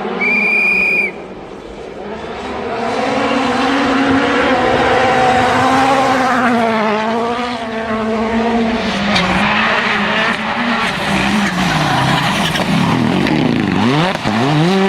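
Rally car engine revving hard, its pitch climbing and dropping repeatedly through gear changes and lifts, with tyre noise. A short, steady electronic beep sounds for about a second at the start.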